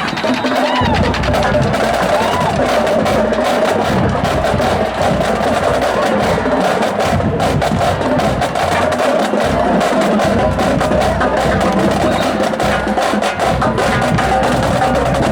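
High school marching band playing a loud, steady tune, with drums striking throughout.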